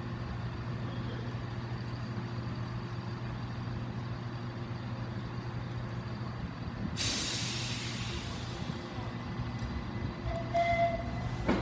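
Train in the station humming steadily, with a loud burst of compressed-air hiss from its brakes a little after halfway. Near the end the driver gives a short whistle on the horn before departure.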